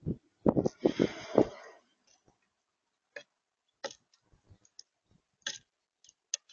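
Birds at a feeder: several dull knocks with a rustling hiss in the first second and a half, then scattered sharp clicks.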